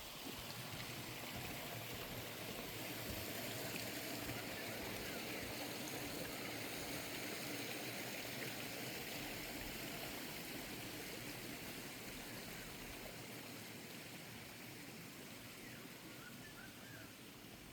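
Steady rushing of flowing water, a little louder at first and fading gently toward the end.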